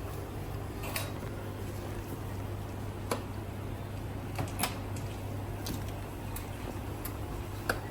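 Scattered light clicks and taps, about eight of them at uneven intervals, from parts of a coffee grinder being handled and fitted during reassembly, over a steady low hum.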